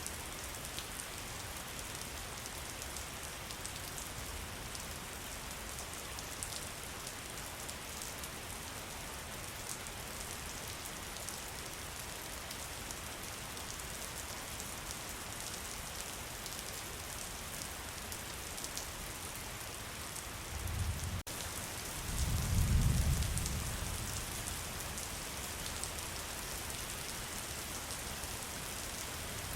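Steady rain falling: a dense, even hiss with scattered drop patters. About twenty seconds in, a low rumble of thunder swells for a few seconds and fades.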